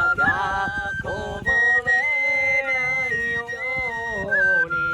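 Handmade bamboo flute playing a melody of held, stepping notes, with a lower melodic part beneath it.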